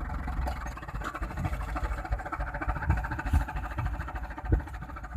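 Truck engine idling low and uneven after being revved, with scattered dull knocks, the loudest about four and a half seconds in.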